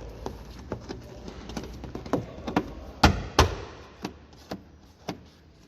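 Handling noises from fitting a rubber wiring boot and its part into place: a run of small clicks and taps, with two loud knocks in quick succession about three seconds in.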